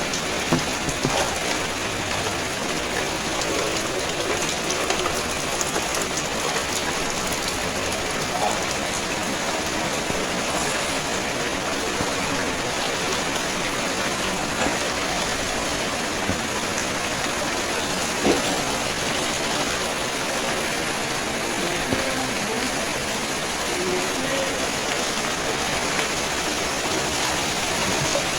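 Steady rain falling, a dense even hiss, with a few scattered sharper drips or taps standing out.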